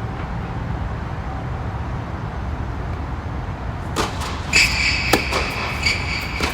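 Tennis ball struck by rackets in a quick run of sharp hits, about five over the last two and a half seconds, with high squeaking between them. A steady low rumble sits underneath.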